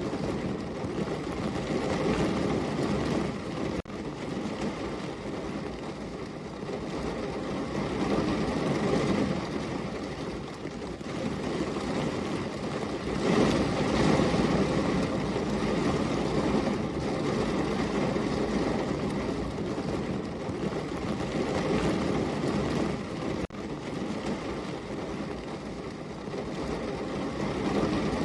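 Heavy rain falling steadily: a dense, low rush that swells and eases slowly, with two brief dips in level.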